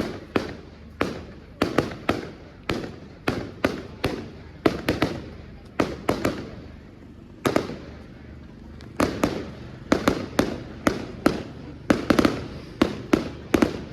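Fireworks display: a rapid, irregular string of sharp bangs, each trailing off in an echo. It thins out briefly in the middle, then comes back in a dense cluster near the end.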